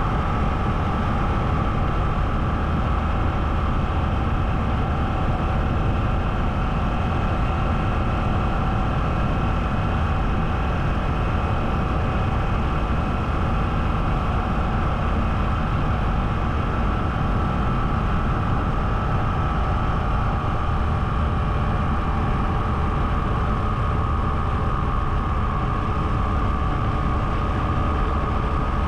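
Motor vehicle running at a steady speed: an even engine and road rumble with a constant whine, no change in pace.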